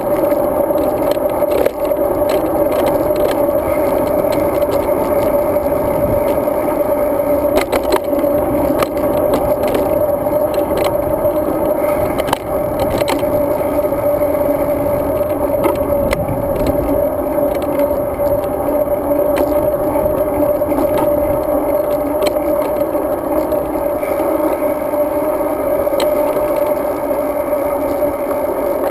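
Riding noise of a road bike as picked up by a GoPro Hero 2: a steady hum and rumble from the bike rolling along, with scattered short knocks and rattles from bumps in the path.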